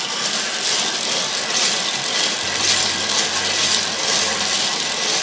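Hand-cranked wire bingo cage spinning, its balls tumbling and clattering against each other and the wire in a steady, continuous rattle.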